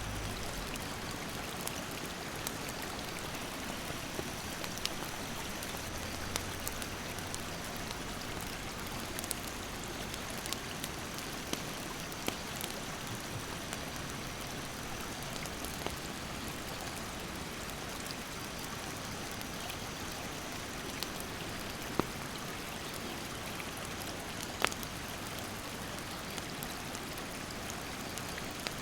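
Steady rush of a mountain stream, with a wood campfire crackling and popping over it. There are scattered sharp pops, the two loudest about three-quarters of the way through. A faint, thin high insect drone stops about three-quarters of the way through.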